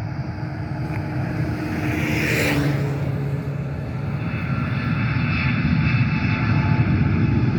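Jet airliner engines running, the sound slowly growing louder.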